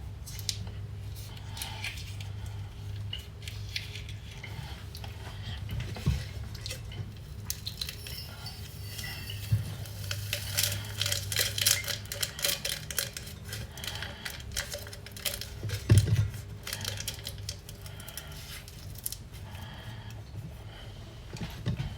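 Kitchen handling sounds of dishes and utensils: scattered clinks, taps and clatter, busiest around the middle, with one louder knock about three-quarters of the way through, over a steady low hum.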